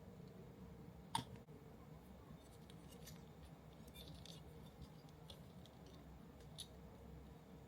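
Quiet small clicks and ticks of parts and tools being handled during R/C truck kit assembly, with one sharper click about a second in and a few faint ticks later, over a low room hum.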